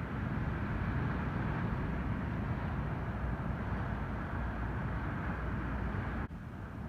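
Ocean surf from an incoming typhoon swell, waves breaking and washing in as a continuous noise with a low rumble. It drops off abruptly near the end.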